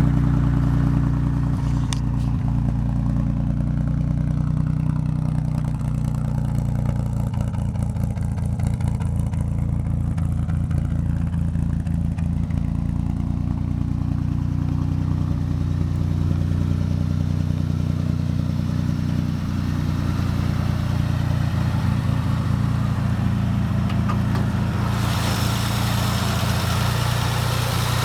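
Plymouth engine with new headers and dual exhaust running steadily at idle. A rushing hiss joins the engine sound near the end.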